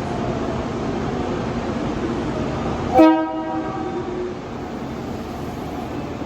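A single short train horn blast about three seconds in, from a JR Kyushu 415-series electric train departing, fading over about a second, over the steady running noise of a station.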